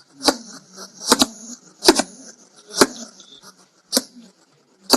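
Hedgehog snuffling: short, sharp, hissy puffs about once a second, with faint clicking between them.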